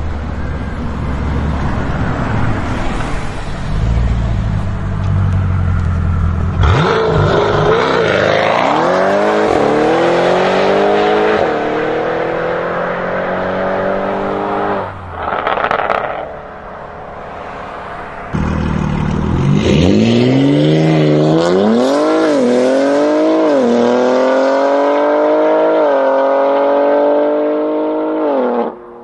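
A supercar engine accelerating hard twice, its pitch climbing through the gears with several quick drops at the upshifts. Before the first pull there is a low rumble.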